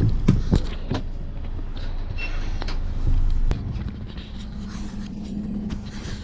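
Low rumble of a vehicle in motion, with a few sharp knocks in the first second. A steady low engine hum comes in about four seconds in.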